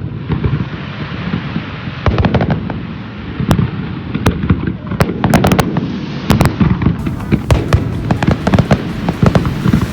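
Fireworks display: a continuous run of aerial shells bursting, with sharp bangs and crackling over a steady rumble, the bangs coming thicker from about two seconds in and again toward the end.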